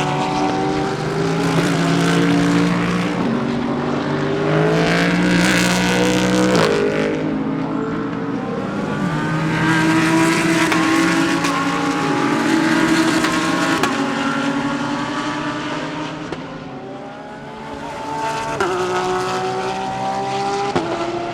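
GT3 race car engines at racing speed, climbing in pitch through the revs and dropping back at each upshift, as one car after another goes past. The sound fades briefly near the end before the next car comes through.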